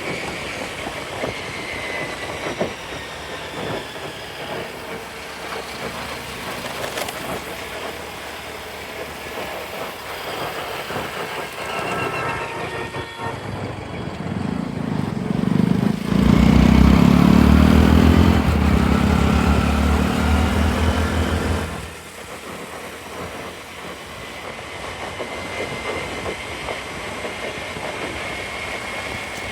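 Riding on a scooter: steady road, wind and traffic noise, with a loud low rumble that swells about halfway through, pulses evenly for about five seconds, then drops away suddenly.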